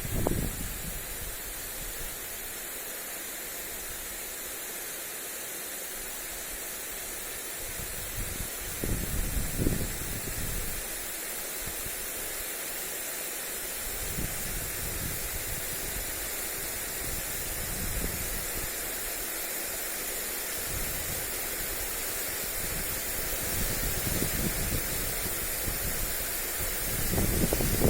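Lawn sprinkler spraying water onto grass, a steady hiss of spray. Gusts of wind buffet the microphone with a rumble about nine seconds in and again near the end.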